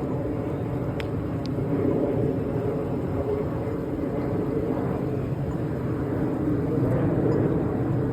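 Steady low rumbling noise of a rainy city street, with a faint click about a second in.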